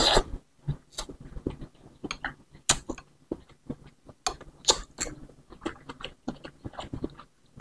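Close-miked eating: a noodle slurp cuts off just after the start, then a person chews bakso meatballs with a run of short, separate mouth clicks and smacks.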